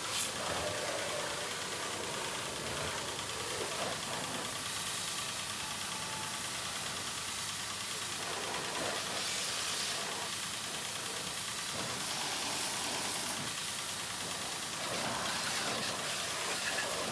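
Pressure washer spraying with a steady hiss over its running motor.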